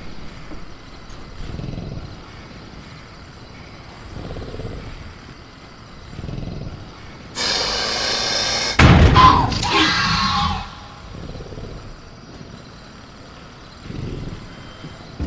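Sound-effect velociraptor in a cage: soft low growls and snorts, then about halfway a loud screeching call, followed by a heavy bang and a second, wavering shriek, like the animal throwing itself against the cage.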